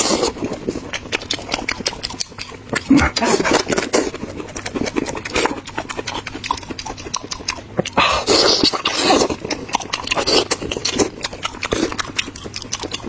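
Close-up eating sounds: crunching and chewing fried chicken, a dense run of sharp crackles and clicks with mouth noises and breaths.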